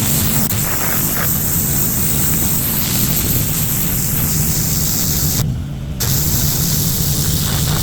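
Pressure washer running, its motor humming steadily under the loud hiss of the high-pressure water spray; the spray hiss cuts out for about half a second near the end while the motor keeps running.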